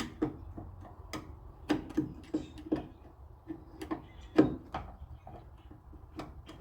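Scattered sharp metallic clicks and taps, about a dozen at uneven spacing, from hand tools working on the fasteners of a car door handle as it is tightened inside the door.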